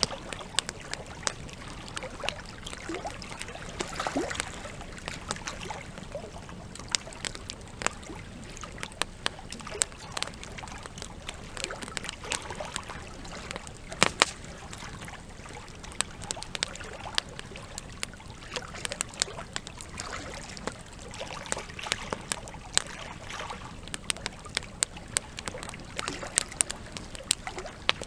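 Campfire crackling, with frequent irregular sharp pops, over the steady rush of a river.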